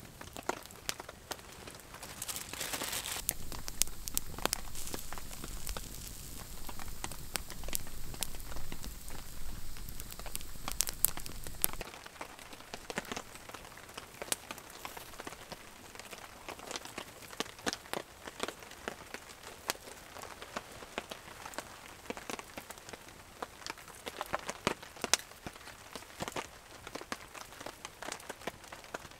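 Rain pattering with sharp crackles and pops from a wood campfire. A louder rushing noise with a low rumble sits over it for the first part and stops suddenly about twelve seconds in, after which the crackles and drops stand out on their own.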